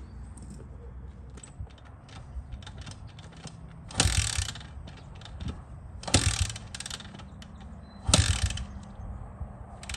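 Honda CRF80's kick-starter kicked three times, about two seconds apart, each stroke turning the single-cylinder engine over with a ratcheting clatter and small clicks between kicks. The engine does not start.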